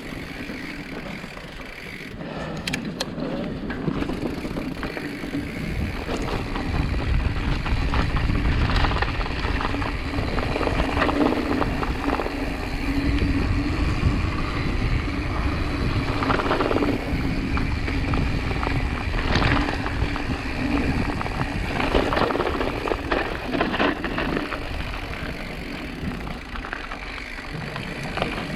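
Mountain bike ridden over rough ground: a continuous rattling rumble with wind noise on the microphone, louder from about five seconds in.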